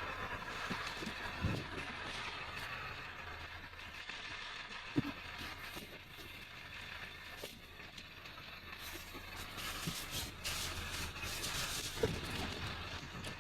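A vehicle running, with a steady low hum and noise, and a few sharp knocks or rattles.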